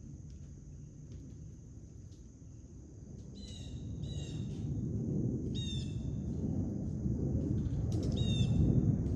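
Harsh bird calls in three short bursts about two seconds apart, over a steady thin high whine and a low outdoor rumble that grows louder partway through.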